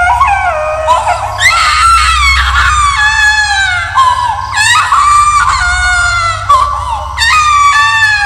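Horror sound effect of high-pitched ghostly wailing cries, several overlapping, with a new one starting about every two seconds, each wavering and then falling away. A low droning hum runs beneath.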